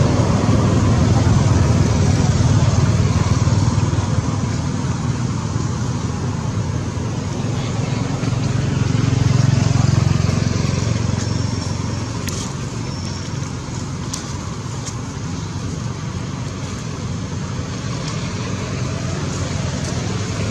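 Steady low rumble of a running vehicle engine or road traffic, swelling about nine seconds in and then easing off.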